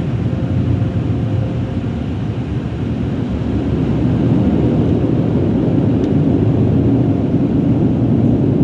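Automatic car wash machinery running loud around the car in its "hurricane" stage, heard from inside the cabin: a steady rushing noise that builds a little about four seconds in.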